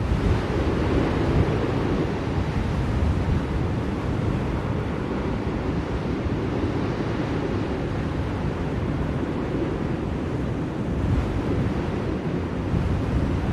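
Blizzard wind blowing steadily, a deep rushing noise that swells in gusts about a second in and again near the end.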